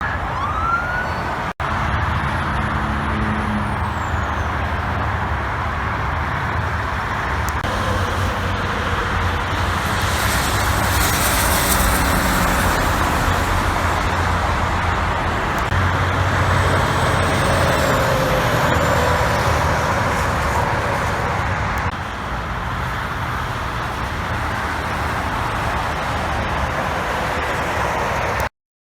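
Heavy diesel trucks going by on a road, with engines running and continuous tyre and road noise. A couple of high, falling whistles ride over it.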